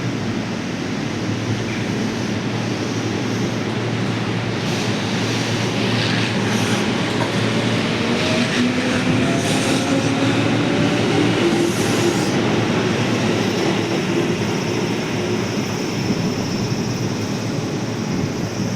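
Tobu 8000 series electric train pulling away. Its traction motors hum in a pitch that rises slowly as it picks up speed, with the wheels clicking over the rail joints partway through.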